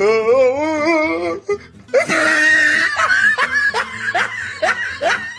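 A person laughing hard: a long wavering laugh, then a loud outburst and a run of short rising bursts about twice a second, cut off abruptly at the end.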